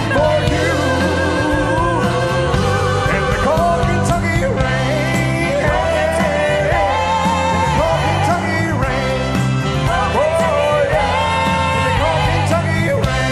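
Live band with drums, bass, keyboards, guitar and a horn section playing a ballad, with held, wavering sung notes over it.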